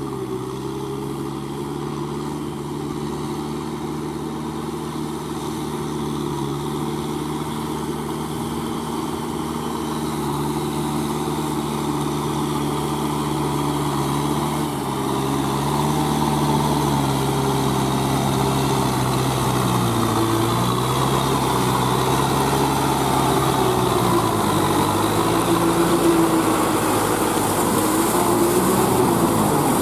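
Kubota M6040SU four-wheel-drive tractor's diesel engine running steadily under load while wet-tilling a muddy rice paddy. It grows gradually louder, and its note dips briefly about two-thirds of the way in and again near the end.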